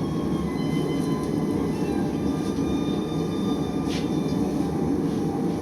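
A forge running with a steady, even roar, its rumble lowish and unchanging.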